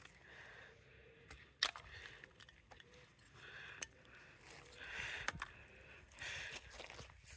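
Sharp plastic clicks and scraping as an air-conditioner remote control is pried and broken apart, with one louder snap about a second and a half in.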